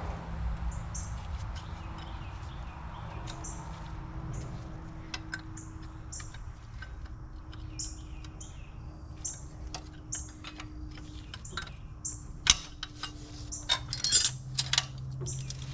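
Scattered metal clinks and taps of hand tools and loose engine parts, the sharpest about twelve and fourteen seconds in, over a low steady hum. Short high bird chirps repeat at an even pace throughout.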